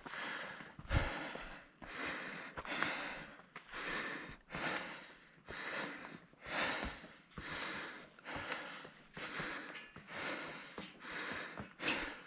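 A hiker's heavy, rhythmic breathing close to the microphone, about one breath a second, from the effort of climbing a steep mountain trail.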